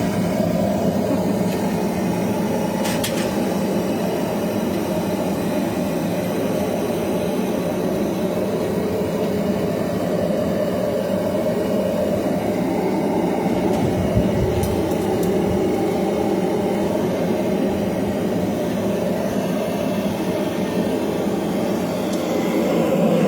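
Forge running steadily with a constant roar while a knife blank heats in it.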